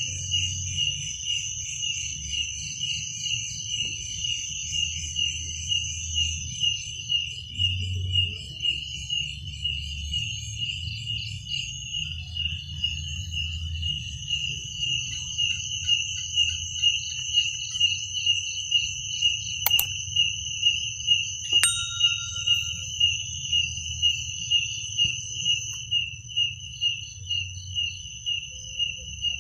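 Crickets chirping at night: one loud, evenly repeating chirp about twice a second over a steadier, higher trill from other insects, with a low rumble beneath. Two sharp clicks come about two-thirds of the way through.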